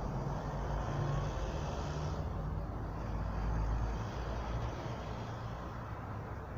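Steady low rumble of a motor vehicle running, easing a little after about four seconds.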